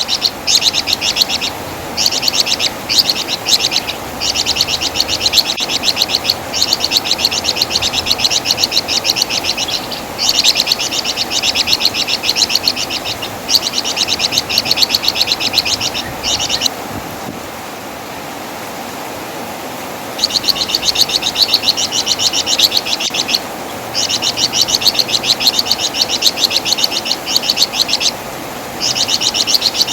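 Flamboyan (Wergan Jawa) songbird chattering in rapid, high, rattling runs of notes lasting a few seconds each, with short breaks between runs and a longer pause about halfway through.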